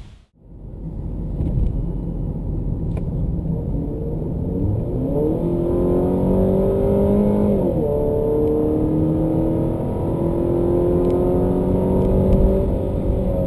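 2014 Jeep Cherokee Sport's 2.4-litre Tigershark four-cylinder engine at full-throttle acceleration, heard from inside the cabin. The engine note climbs steadily in pitch, drops when the nine-speed automatic upshifts about eight seconds in, then climbs again.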